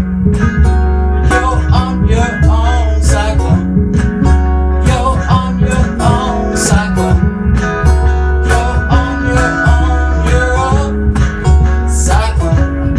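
Instrumental band music: an acoustic guitar lead with bent notes over strummed acoustic guitar, bass and drums with cymbal hits.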